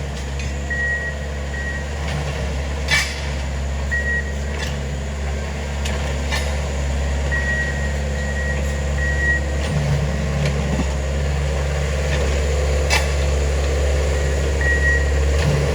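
Diesel engines of railway track maintenance machines running steadily, with a backup alarm beeping on and off and a few sharp metal clanks.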